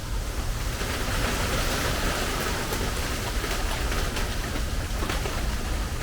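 Rain drumming on the metal roof of a screened porch: a steady hiss that grows heavier about a second in, with scattered sharp ticks from single drops striking the metal and a steady low rumble underneath.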